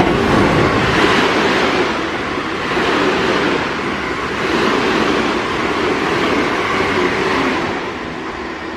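Electric train running along the platform, the rumble of its cars on the rails swelling and fading about every two seconds, then easing off toward the end.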